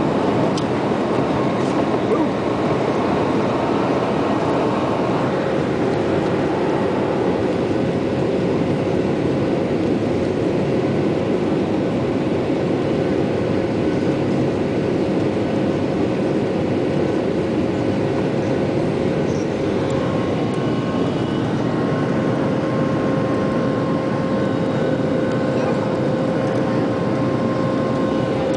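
Jet airliner engines and rushing air heard from inside the passenger cabin during takeoff: a loud, steady rumble with a faint steady whine over it.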